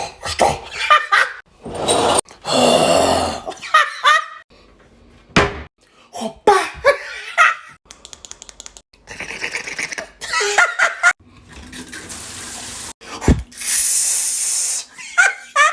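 Mouth-made sound effects in quick succession: long hisses, sharp clicks and pops, a fast rattle of ticks, and short squeaky vocal noises, each a separate imitation.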